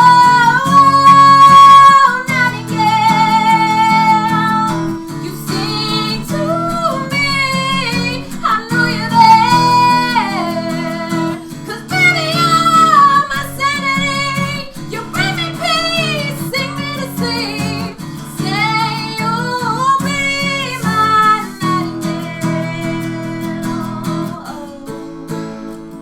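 Female voice singing with acoustic guitar accompaniment, the song fading toward the end.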